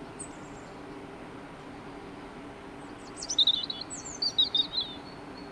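Small bird chirping in two quick twittering phrases, about three and four and a half seconds in, over a steady low hum.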